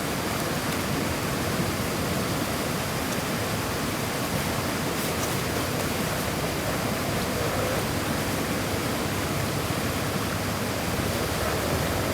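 Steady rush of a fast-flowing river swollen by heavy rain.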